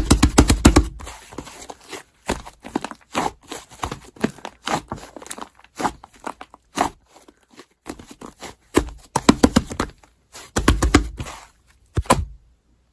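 Slime being handled: squished, pressed and stretched, giving sharp sticky clicks and pops, with rapid runs of popping near the start and again after about nine seconds.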